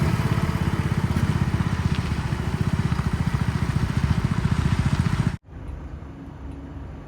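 A diesel engine running with a steady rapid throb. It cuts off abruptly about five seconds in, leaving much quieter background noise.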